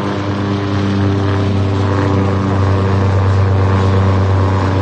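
A motor running at a steady speed, giving a constant low hum with a stack of overtones that holds its pitch throughout.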